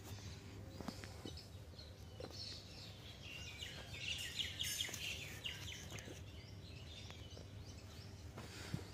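Quiet outdoor background with a small bird chirping a quick run of high notes about four seconds in.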